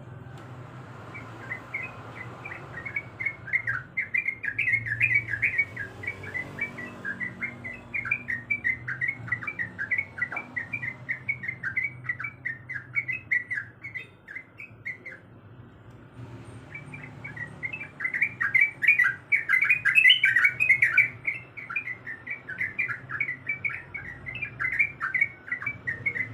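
Yellow-vented bulbul (trucukan) singing: fast, bubbling strings of chattering notes in two long bouts, with a short pause about fifteen seconds in. A faint steady low hum runs underneath.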